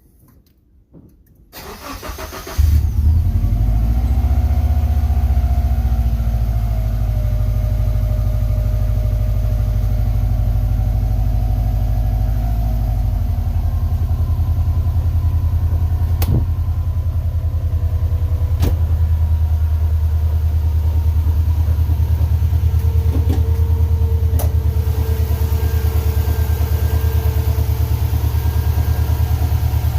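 Subaru boxer engine cranked by its starter and catching about two and a half seconds in, then idling steadily on a cold start to warm up on fresh oil; the idle note shifts about 13 seconds in.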